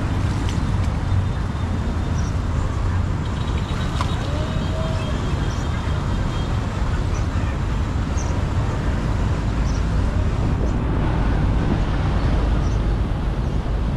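Steady rush of floodwater pouring through a clogged street drain.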